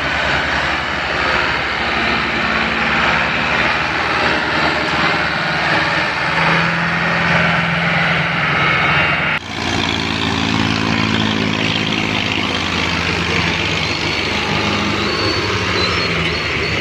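New Holland 640 tractor's diesel engine running hard with a steady engine note. About nine seconds in the sound breaks off abruptly and resumes with a different engine pitch.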